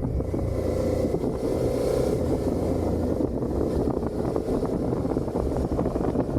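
Suzuki SV650's V-twin engine running at a steady cruise through its stock exhaust, with wind buffeting the microphone.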